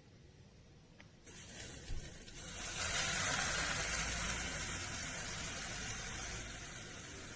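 A faint click, then a loud, even sizzle that swells for a couple of seconds and slowly dies down: food sizzling on a hot pan over the camp fire.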